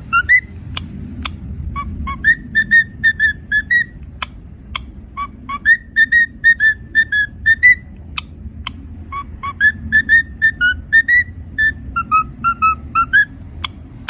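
Cockatiel whistling the same short tune about four times over, each phrase a run of quick notes ending on a rise. A few sharp clicks fall between the phrases.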